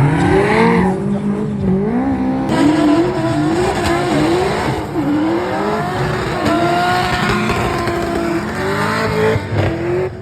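Drift car engine revving up and down repeatedly while sliding, with tyre squeal under it; the engine note saws up and down several times, then holds steadier before falling near the end.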